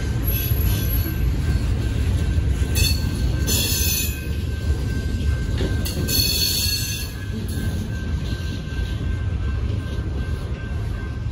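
Slow freight train rolling through a grade crossing: a steady low rumble of freight cars going by, with two short high squeals from the wheels about three and six seconds in.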